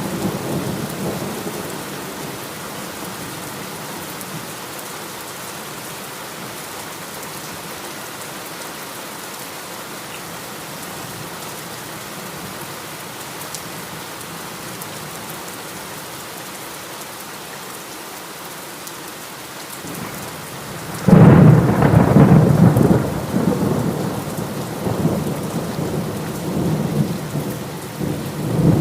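Steady heavy rain hissing, with a low roll of thunder fading in the first couple of seconds. About two-thirds of the way in a loud thunderclap breaks suddenly and rumbles on in swells to the end.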